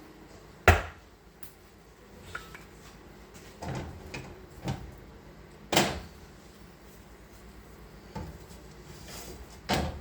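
Kitchenware being handled: a series of separate knocks and clunks, about six in all, the loudest about a second in.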